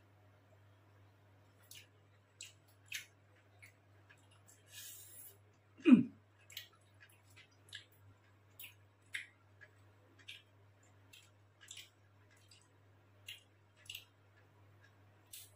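A man chewing a mouthful of food, with short irregular wet mouth clicks and smacks. A brief falling 'mm' from his voice about six seconds in is the loudest sound, over a faint steady low hum.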